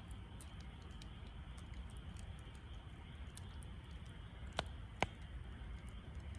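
Wood fire crackling, with faint ticks throughout and two sharp pops about four and a half and five seconds in, over a low steady rumble.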